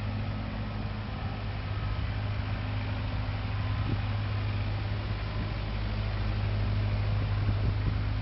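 Caterpillar 307B excavator's diesel engine running steadily, with a constant low hum.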